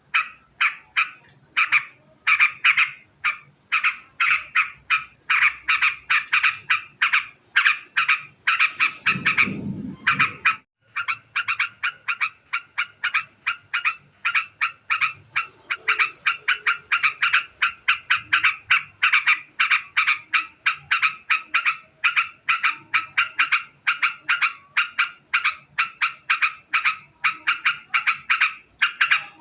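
Yellow-vented bulbul (trucukan) chattering nonstop in a long, very fast run of sharp repeated notes, about four a second. A dull low thump-like rumble comes about nine seconds in, followed by a brief pause in the calls.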